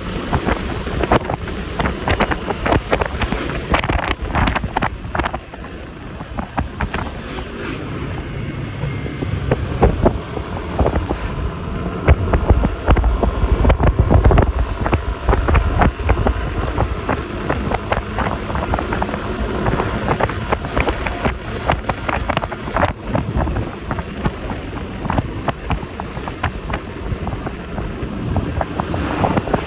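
Wind buffeting the microphone of a moving Yamaha Lexi LX 155 scooter, with the scooter's engine and road and traffic noise underneath. The buffeting swells to its loudest about halfway through.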